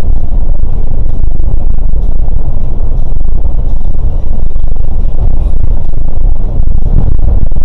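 Scania K410 coach under way: a loud, steady low rumble of engine and road noise.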